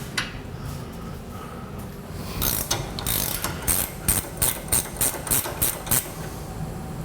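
Sharp metallic clicks from a hand tool: one click near the start, then a run of evenly spaced clicks, about three a second, that stops about a second before the end.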